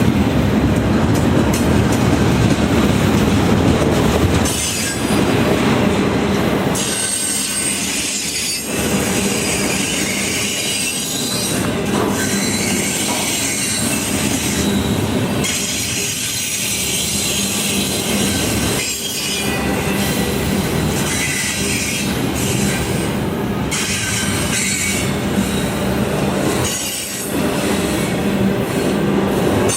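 A train running past close by, its steel wheels rolling on the rails, with high-pitched wheel squeal that comes and goes.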